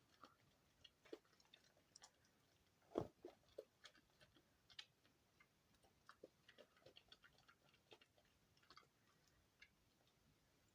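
Soft, scattered clicks and crackles of hand-pressed soap scraps being handled, with one louder knock about three seconds in.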